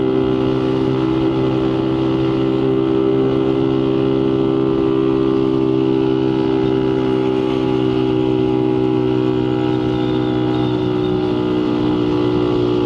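Motorcycle engine running steadily at a constant cruising speed, its pitch holding even with no revving or gear changes, heard from the rider's helmet camera.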